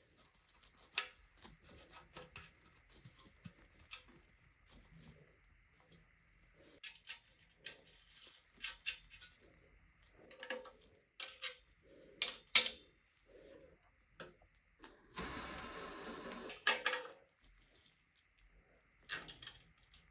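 Small metal parts and hand tools clicking and clinking as they are handled and set down, with a few sharper knocks. A steady rushing noise lasts about two seconds just past the middle.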